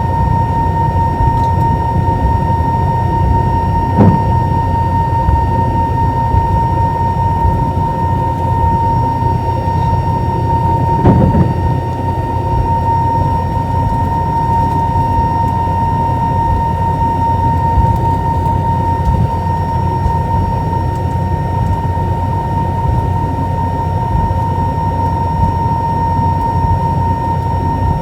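Airliner cabin noise inside an Airbus A320: a steady low rumble with a constant high whine from the jet engines running evenly. Two short thumps, about 4 and 11 seconds in.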